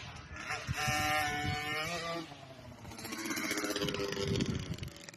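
Motocross bike engine running at high revs as it goes past, its pitch dropping about two seconds in; a second, quieter engine note follows.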